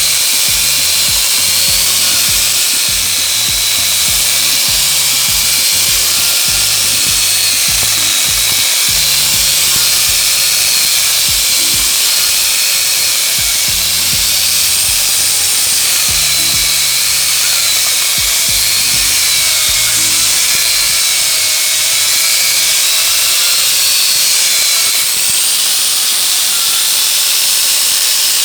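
Angle grinder fitted with a chainsaw head attachment running and cross-cutting through a very hard log, a loud high whine that wavers a little in pitch as the chain works through the wood. Background music with a low bass line plays underneath.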